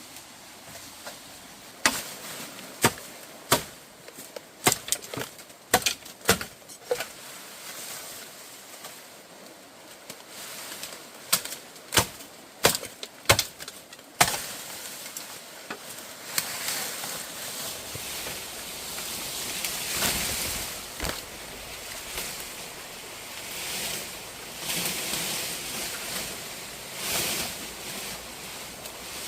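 Sharp, irregularly spaced strikes on wood, a dozen or so, as when timber is chopped or hammered while building. After that comes a steady rushing noise that rises and falls.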